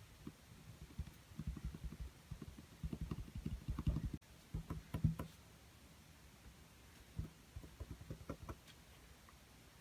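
Paintbrush dabbing and stroking acrylic paint on a small canvas: quick runs of soft, low taps, dense in the first half and sparser after.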